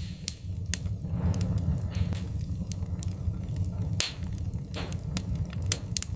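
Wood fire crackling: irregular sharp pops and snaps over a steady low rumble, with a few brief hissing swells, about a second in and around four to five seconds in. The loudest pops come near the end.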